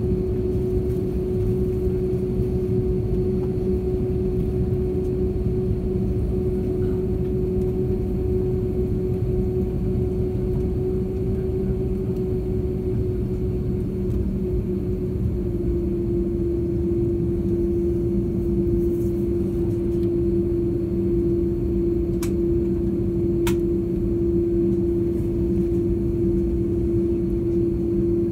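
Steady hum and rumble of an airliner's engines and air systems heard inside the passenger cabin while on the ground before takeoff. The main hum drops slightly in pitch about halfway through, and two faint clicks sound near the end.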